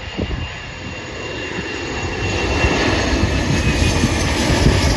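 Embraer ERJ-145 regional jet's twin Rolls-Royce AE 3007 turbofans: a jet whine growing steadily louder as the arriving plane comes closer. Wind rumbles on the microphone underneath.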